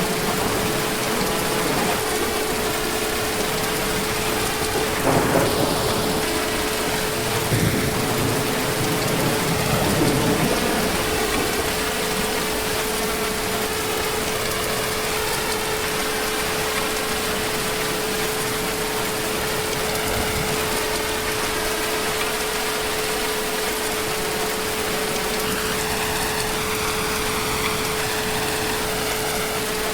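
Heavy rain falling steadily, with a roll of thunder from about five to eleven seconds in that swells several times before fading back into the rain. A thin steady humming tone runs under it throughout.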